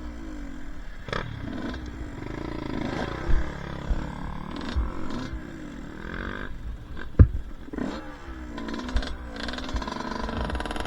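Two-stroke dirt bike engine revving up and down over and over while riding a trail, with several sharp knocks mixed in, the loudest about seven seconds in.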